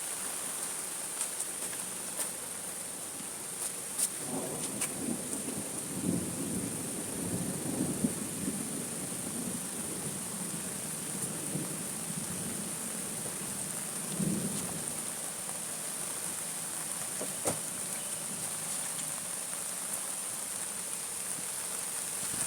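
Steady rain, with a low rumble of thunder from about four seconds in, fading by about nine seconds, and a shorter rumble a little later. Scattered drip clicks and a steady high-pitched hiss run under it.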